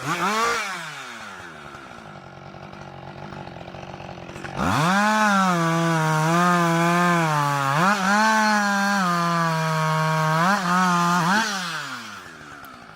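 Husqvarna 560 XP two-stroke chainsaw blipped a couple of times, then idling for a few seconds. About four and a half seconds in it goes to full throttle and stays there for about seven seconds while cutting wood, its pitch sagging and recovering under load, before dropping back to idle near the end.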